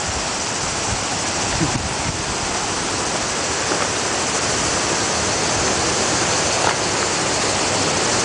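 Waterfall water rushing in a steady roar that fills the whole range from low to high.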